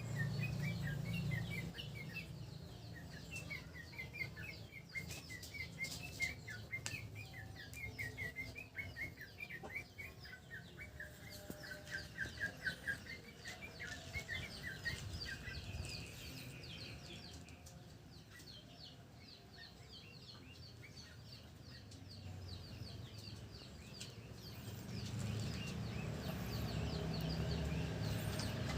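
Yellow-vented bulbul (terucuk) in breeding condition, calling in runs of quick, repeated chirping notes. The calls are loudest in the first half, with fainter, higher chirp series later, over a low rumble near the start and end.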